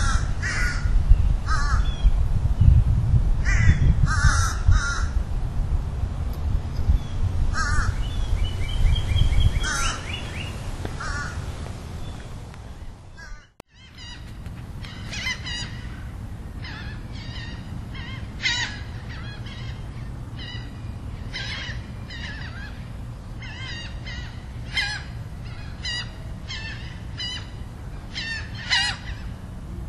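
Birds calling: short calls repeating every second or two over a low rumble. The sound drops out briefly about 13 seconds in and resumes quieter, with the short calls coming more often.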